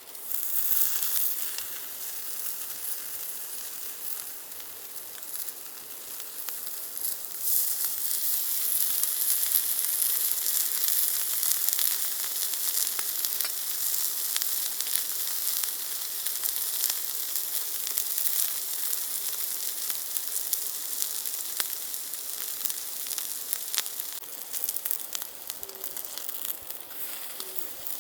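Meat sizzling on a grill over charcoal embers, a steady hiss dotted with small pops of spitting fat, getting louder about seven seconds in.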